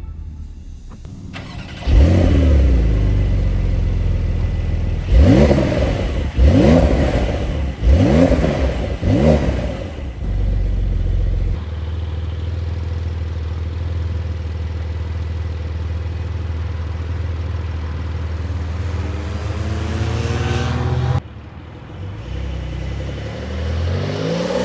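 Porsche 992.2 Carrera's twin-turbo flat-six comes to life about two seconds in, is blipped four times in quick succession with the revs rising and falling, then settles to a steady idle. Near the end it is revved up again as the car pulls away.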